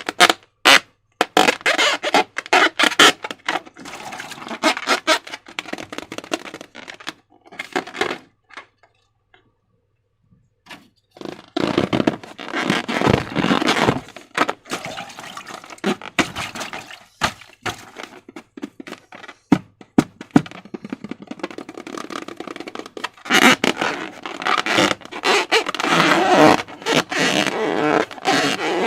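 Slime being worked by hand: dense, wet crackling and popping clicks, with a pause of about three seconds a third of the way through.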